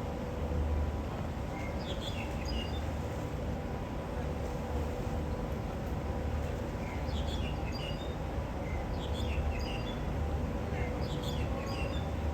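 Small birds chirping in short clusters of quick notes every couple of seconds, over a steady low rumble and a faint steady hum.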